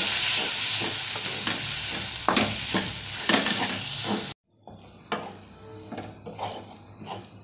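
Onion-tomato masala sizzling in oil in a nonstick pan as a spatula stirs in freshly added chili and turmeric powder, with repeated scraping strokes. A little over four seconds in the sizzle cuts off abruptly, leaving quieter spatula scraping and stirring of the thickened paste.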